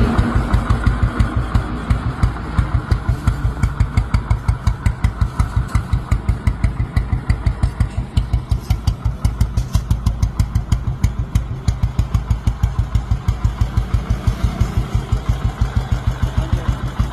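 Royal Enfield Classic 350's single-cylinder engine idling with an even, steady thump.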